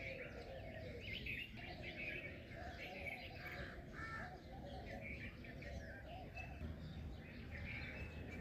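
A chorus of birds chirping, many short overlapping calls with no pause, over a steady low background rumble.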